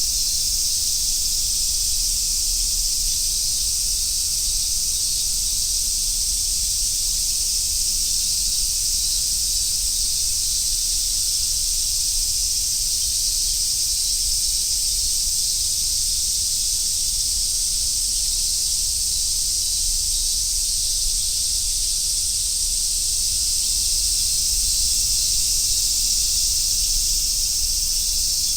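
Cicadas chorusing in summer: a dense, steady high-pitched hiss with no breaks.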